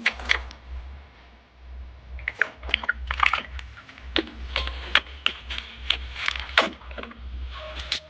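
Irregular light tapping clicks, a few to the second at uneven intervals, over a steady low hum.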